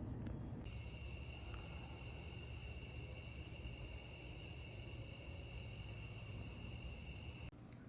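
A faint, steady, high-pitched insect trill, cricket-like, that starts abruptly about a second in and cuts off abruptly just before the end, over a low background rumble.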